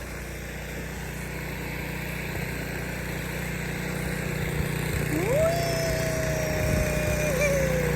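A steady low rumble that slowly grows louder, with a woman calling out one long "woo" about five seconds in, rising then gliding slowly down in pitch.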